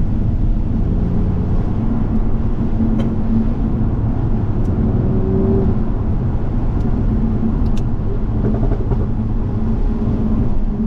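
Toyota Supra MK5 driving on a wet road: a steady engine drone over low road and tyre rumble, with a brief rise in engine pitch about halfway through.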